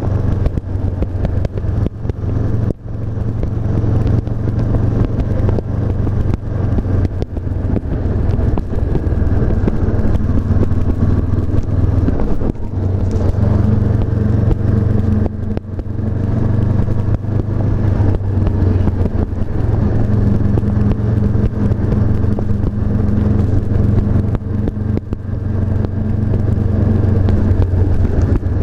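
Honda CB500F's 471 cc parallel-twin engine running at a steady cruise with wind rush. The engine note dips briefly three times: about three seconds in, midway and near the end.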